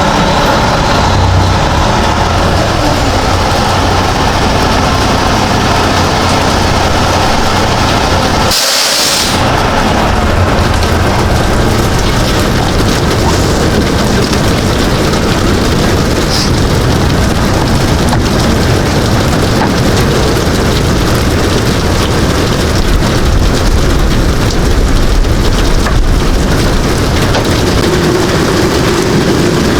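A semi truck's engine and road noise, a steady, loud rumble with a wide hiss over it. It breaks off briefly about nine seconds in, where a short bright hiss sounds.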